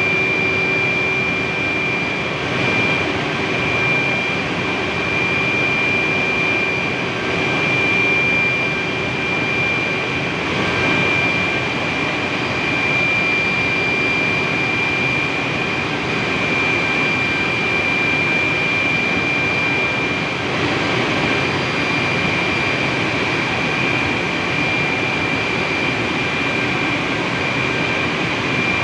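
Steam turbine in a power plant running steadily: a loud, even rush with a steady high-pitched whine on top.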